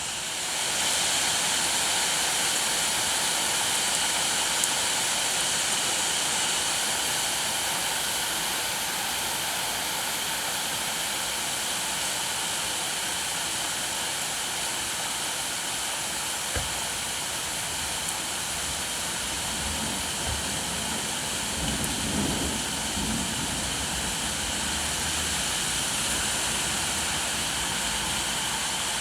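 Steady rain falling, a dense even hiss that swells a little about a second in. A single sharp click comes about two-thirds of the way through, and a brief low rumble follows a few seconds later.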